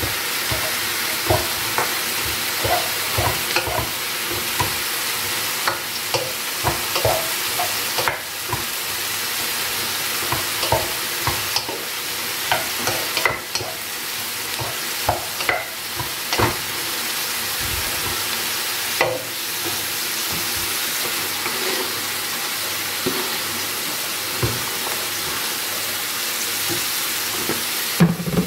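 Kale frying in a pot, with mushrooms frying in a pan beside it: a steady sizzle, broken by frequent clicks and knocks of a wooden spoon against the pot as the kale is stirred.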